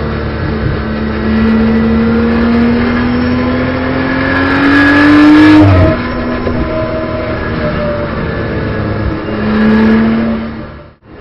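BMW M240i Racing Cup's turbocharged straight-six, heard from inside the cockpit, pulling steadily higher in revs for about six seconds before the revs drop sharply. It holds lower revs, climbs briefly again, and cuts out abruptly near the end.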